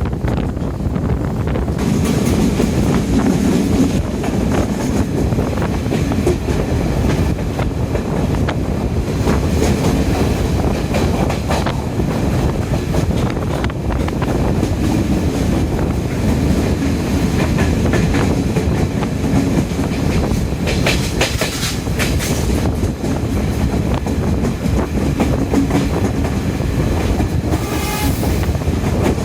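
Passenger train coach of a 2019 Chinese-built diesel multiple-unit express running on the line, with a steady rumble and the clickety-clack of the wheels over the rails. Short high-pitched squeals come through about two-thirds of the way in and again near the end.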